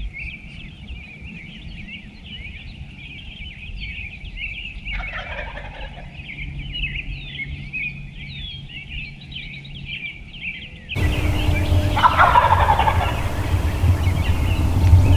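Wild turkeys gobbling, with a gobble about five seconds in and a louder one about twelve seconds in, over steady high chirping of other birds. The sound turns abruptly louder about eleven seconds in, with a low rumble underneath.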